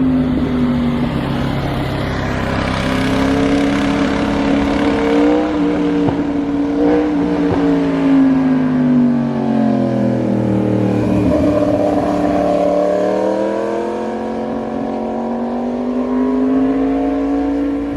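Yamaha MT-10 SP's crossplane inline-four engine running under way. The engine note rises over the first few seconds, sinks about halfway through, then climbs steadily again toward the end.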